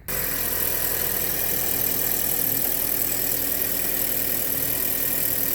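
2012 Chevrolet Sonic's engine idling steadily with a newly fitted alternator and serpentine belt. It seems to be free of the strange alternator noise it had before the repair.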